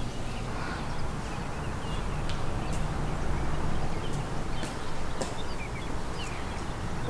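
Outdoor ambience: a steady low rumble and hiss, with a few short high chirps scattered through.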